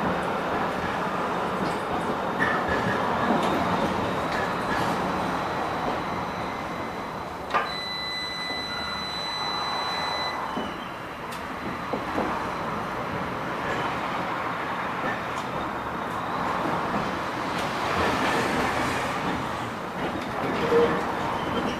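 LM-99AVN tram running along the track, its wheels knocking fairly softly over the rail joints. About seven and a half seconds in there is a sharp knock, followed by a thin high steady tone lasting a few seconds.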